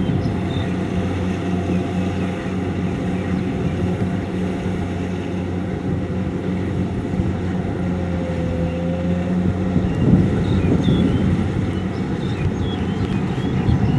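Kubota DC-70 combine harvester's engine running steadily under load in the field, getting rougher and louder for a few seconds about two-thirds of the way in.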